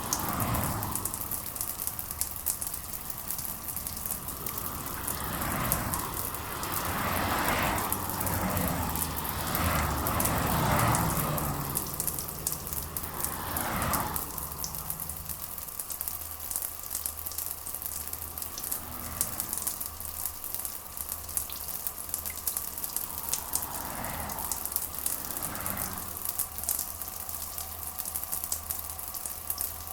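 Steady rain ambience: a constant hiss of rainfall with fine crackling drop sounds. Softer, muffled swells rise under it for several seconds in the first half and twice more near the end.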